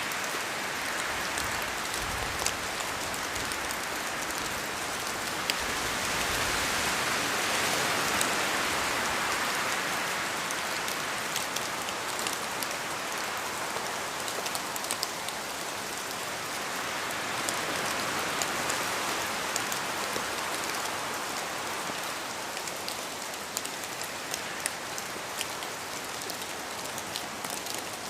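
Steady rain falling on forest foliage, a dense hiss with scattered sharper drop ticks, swelling louder and easing again a few times as the wind gusts.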